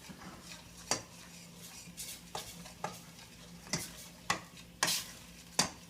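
A cooking utensil stirring green curry paste and coconut milk in a frying pan, scraping and knocking against the pan in irregular sharp clicks, with a faint sizzle from the pan on high heat.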